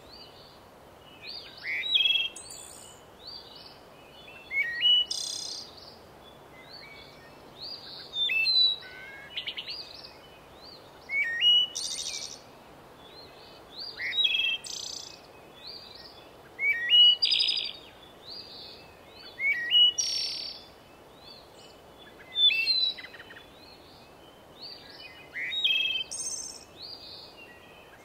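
A songbird singing short, quick chirping phrases, about one every three seconds, over a faint steady hiss.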